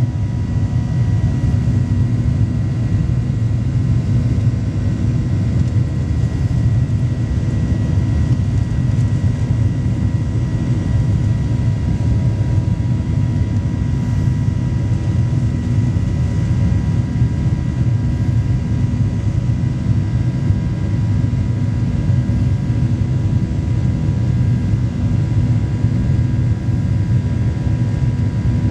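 Boeing 737 Next Generation's CFM56-7 jet engines running steadily at takeoff or climb power: an even, deep rumble with a faint steady whine above it, unchanging throughout.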